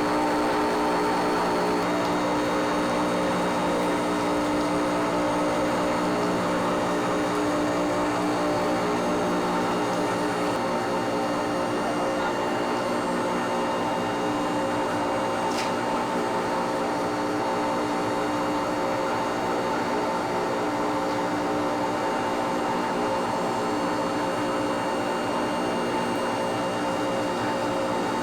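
Steady, unchanging hum of running factory machinery, several constant tones over a continuous whir.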